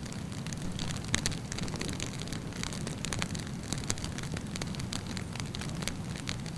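Wood campfire burning steadily with a low rumble, and frequent irregular sharp crackles and pops of burning wood.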